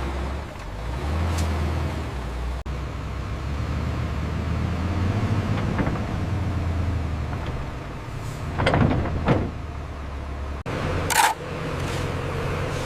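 Heavy diesel construction machinery running steadily with a low engine hum. A few short, sharper mechanical noises come in near the end.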